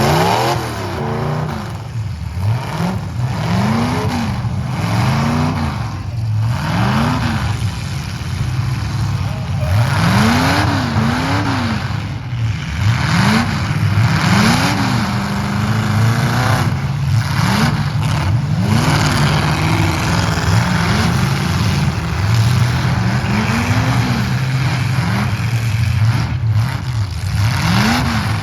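Demolition-derby truck engines revving hard over and over, several at once, their pitch rising and falling about once a second, over constant noise from the arena.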